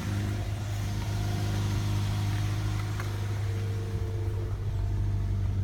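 2008 Toyota Yaris engine idling steadily, a low hum with fainter higher tones over it. This is the odd running noise that the owner's dad thinks may come from the serpentine belt.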